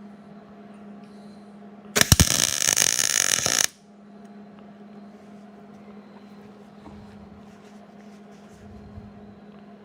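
Welding arc crackling for a tack weld, one burst of about a second and a half starting about two seconds in, over a steady low hum.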